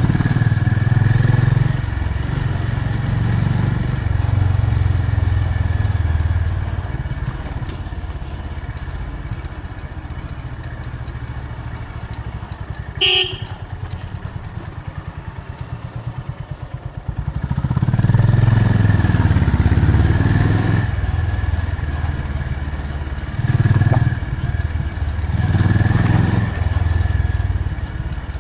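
Honda CB350 RS's single-cylinder engine running under way, revving up in several swells and easing off in between. A brief horn beep sounds about halfway through.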